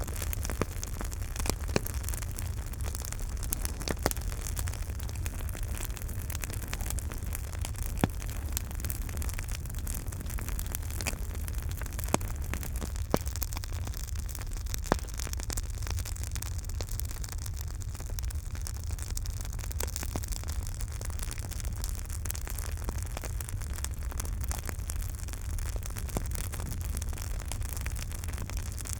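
Campfire crackling steadily with many small sharp crackles and a few louder pops scattered throughout, over a constant low rumble.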